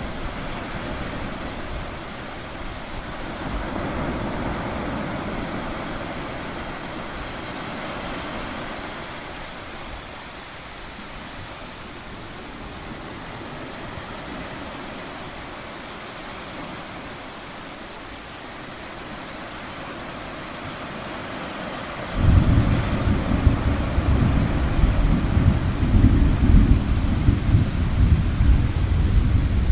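Ocean surf hissing steadily, swelling and easing slowly. About 22 seconds in, a loud, low rumble of thunder starts suddenly and rolls on.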